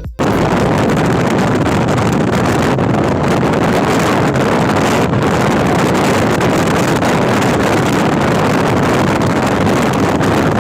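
Wind rushing over the microphone of a Yamaha FZS 25 motorcycle riding at speed, a steady loud rush with road and engine noise underneath, cutting in abruptly.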